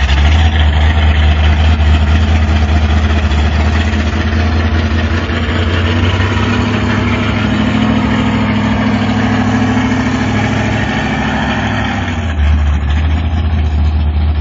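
Drag race car engine idling loudly and steadily, with small shifts in its note around the middle and near the end.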